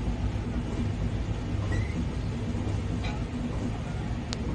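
Passenger coaches of an arriving express train rolling past, a steady low rumble of wheels on rails. There is a brief faint high squeak nearly two seconds in and a single sharp click near the end.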